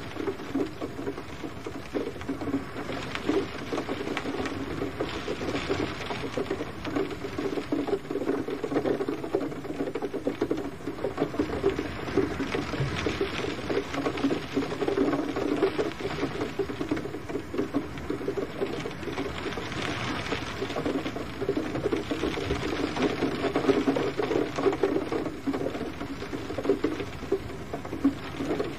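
Gentle rain falling and pattering on a surface: a dense, steady patter of many small drops.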